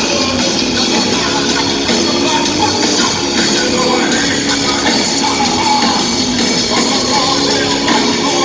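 Live hard rock band playing loud, with electric guitars, bass and drums.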